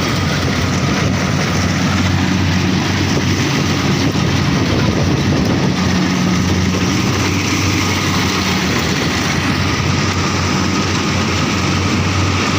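Rice combine harvester's diesel engine and machinery running steadily at an even pitch, a low hum under a wide mechanical noise.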